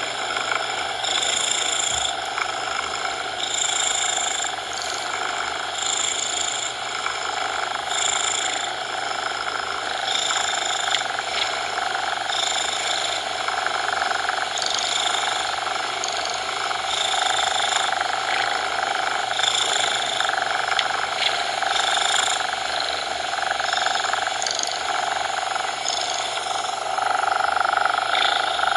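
Cat purring steadily, the sound swelling and easing with each breath about every two seconds.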